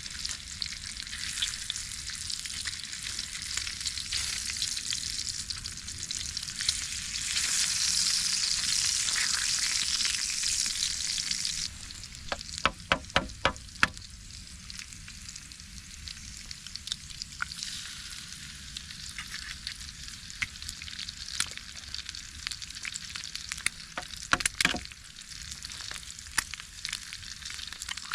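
Breakfast frying in a pan over campfire coals, a steady sizzle that swells for a few seconds and drops off suddenly about twelve seconds in. A quick run of sharp taps follows, and a few more near the end.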